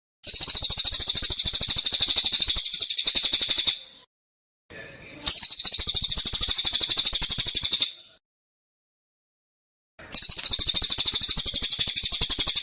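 A songbird's rapid trill of evenly repeated high notes, given in three bursts of about three to four seconds each with short silences between.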